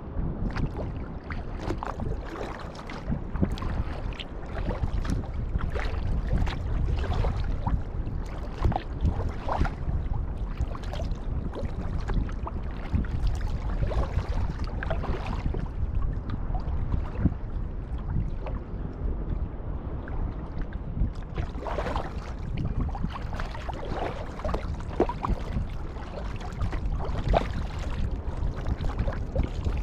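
Kayak paddle strokes dipping and splashing in the water, a splash every second or two, over a steady low rumble of wind buffeting the microphone.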